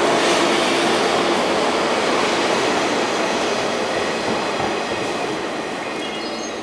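JR 583 series electric multiple unit pulling out past the platform: a steady rumble of wheels and running gear with a low whine that dies away in the first second or so. The whole sound fades steadily as the last car goes by.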